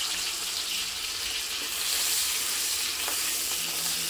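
Dried shrimp frying in hot oil in a wok, a steady sizzle, with a metal spatula stirring and scraping now and then.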